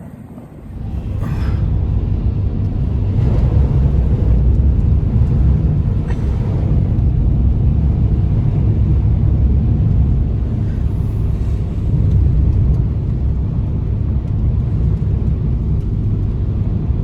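Strong wind buffeting the microphone: a loud, steady low rumble that sets in about a second in and cuts off abruptly at the end.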